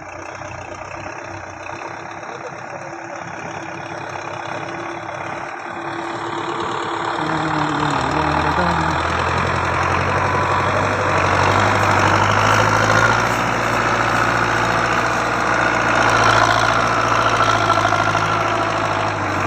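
Belarus 510 tractor's four-cylinder diesel engine running under load. It grows louder over the first several seconds, its pitch dips briefly and recovers about eight seconds in, and it then runs steady and loud.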